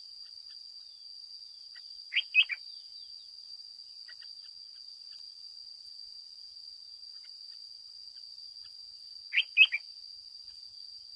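Red-whiskered bulbul calling: two quick bursts of about three sharp chirps each, one about two seconds in and one near the end, with faint scattered chirps between. A steady high-pitched whine runs underneath.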